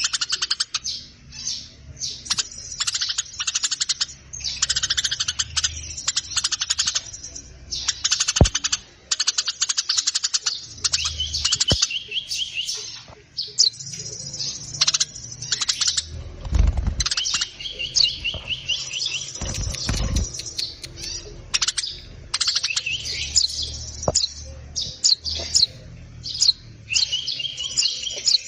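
Songbird singing a rapid, varied chattering song in long phrases with quick repeated trills, almost without pause. Two low thumps come about halfway through.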